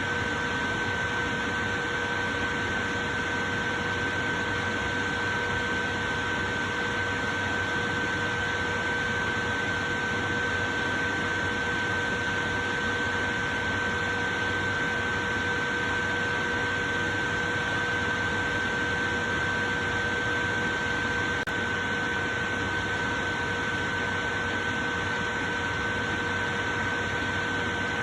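Portable electric fan running steadily: an even rush of air with a constant motor hum.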